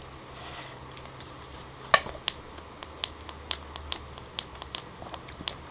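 A bite into a juicy salted cashew apple about two seconds in, then close-miked chewing with short wet mouth clicks, two or three a second.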